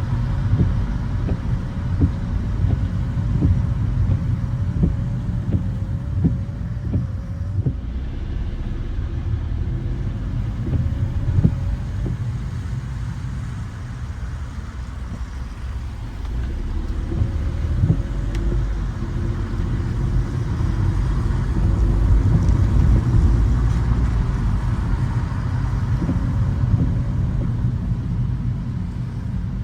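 Car driving on rain-wet city streets: steady low rumble of engine and tyres, with scattered light knocks, growing louder for a while past the middle.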